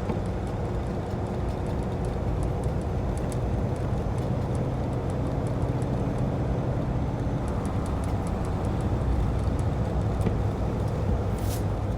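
Car-hauling semi truck driving down the road: a steady engine and road drone with faint scattered ticks.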